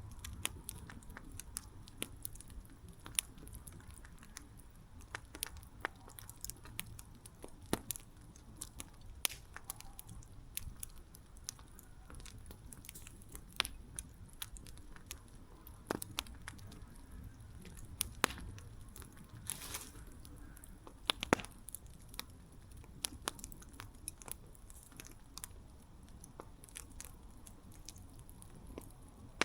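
Campfire burning, with irregular sharp crackles and pops from the wood over a low rumble of the flames. The pops come at uneven intervals, several of them louder than the rest.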